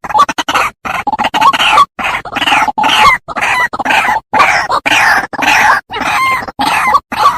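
White-breasted waterhen (ruak-ruak) call recording used as a bird lure: a loud, fast run of short, harsh repeated notes, several a second, with only brief gaps between them.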